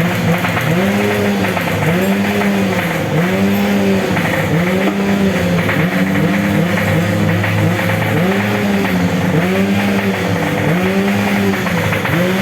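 Racing underbone motorcycle engine, a 125cc big-bore-kit build, revved up and down over and over, rising and falling about once a second over a steady lower engine drone.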